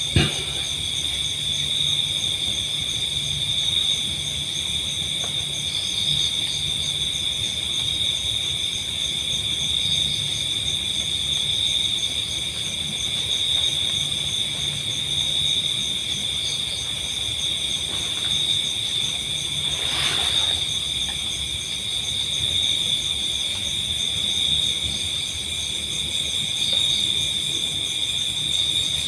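Crickets and other insects calling in a steady night chorus: a continuous high trilling at several pitches. There is a sharp knock just after the start and a brief noise about two-thirds of the way through.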